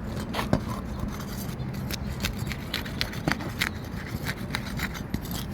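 Irregular scraping and clicking as an old, brittle three-tab asphalt shingle is worked loose, its sealed tab being broken free to get at the nails. One sharper click comes about half a second in.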